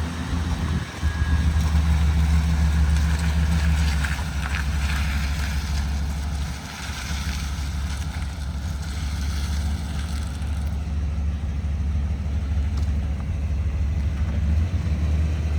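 Gasoline engine of a 1989 Chevrolet 3500 bucket truck running steadily with a low, even hum. It eases down slightly about six and a half seconds in.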